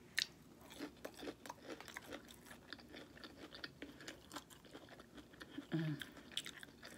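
Faint chewing of fried food: a bite just after the start, then a run of small clicking crunches as it is chewed with the mouth closed. A short hum near the end.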